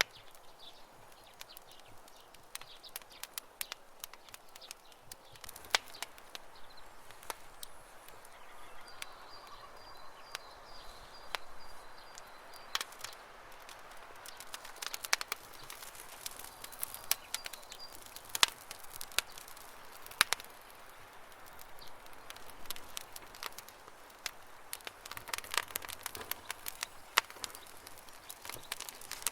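Campfire crackling: irregular sharp pops and snaps of burning wood over a soft hiss of flame, with birds chirping faintly in the background.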